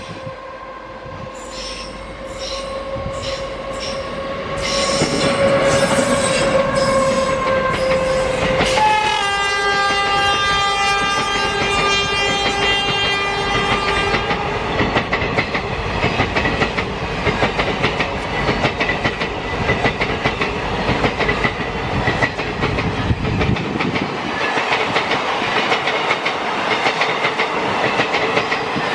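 A WAG-9 electric locomotive and its coaches passing close by. The locomotive's steady whine drops in pitch as it goes by. About nine seconds in, a train horn sounds for about five seconds and cuts off sharply. After that the coaches run past with a continuous rumble and the quick clickety-clack of wheels over the rail joints.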